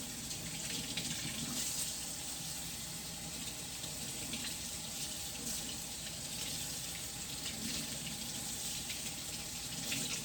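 Tap water running steadily from a faucet into a sink while soapy hands are rinsed under the stream from the wrists down.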